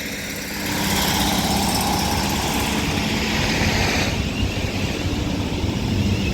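Diesel multiple unit pulling out of the platform: a steady underfloor engine drone with the rumble of the train rolling, growing louder about a second in.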